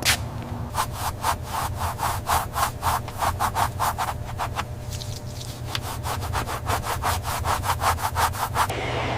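Rhythmic back-and-forth rubbing strokes on a surface by hand, about three to four a second, with a short pause midway, over a steady low hum; the strokes stop near the end as a steady hiss takes over.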